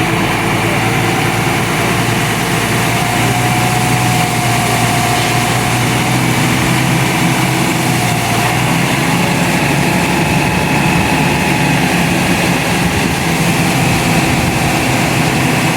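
Tipper truck's diesel engine running steadily while the truck tips its load of ballast.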